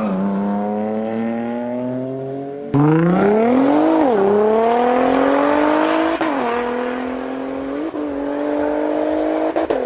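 Car engine accelerating hard through the gears: its pitch climbs steadily, then drops sharply at each of four upshifts. About three seconds in, the sound cuts abruptly to a louder run.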